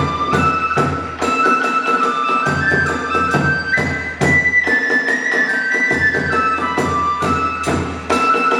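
Kagura hayashi accompaniment: a bamboo flute playing a high melody that steps up and down in pitch over steady, regular drum and cymbal strokes.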